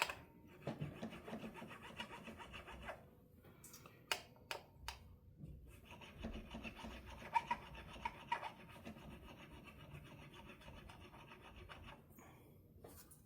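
A fret file rasping across the metal frets of an electric guitar neck, in two spells of back-and-forth strokes with a few light knocks between them, taking down frets that sit too high, mostly under the higher strings.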